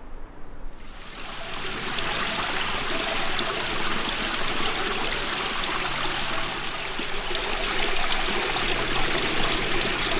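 A small stream running, a steady rush of water that swells up over the first second or two and then holds. A bird chirps once right at the start.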